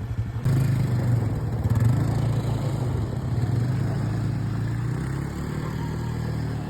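ATV engine running, its hum stepping up in level about half a second in and then holding steady.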